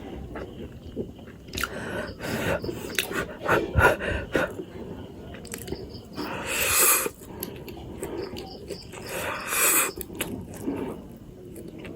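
Someone eating spicy instant noodles: chewing and wet mouth clicks, with two long hissing sucks of air about six and nine seconds in, drawn in against the heat and spice of the noodles.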